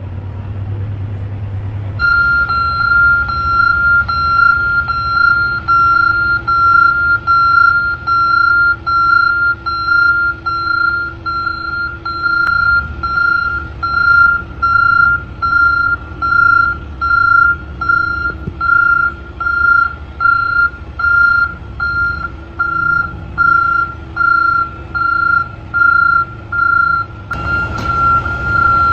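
Dump truck reversing alarm beeping at an even pace of about once a second, one steady high tone per beep, over a low engine rumble. The beeping starts about two seconds in, and a rougher noise joins near the end.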